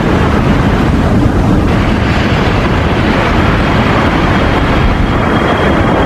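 Loud, steady airplane engine noise, a jet-like rushing sound with no breaks.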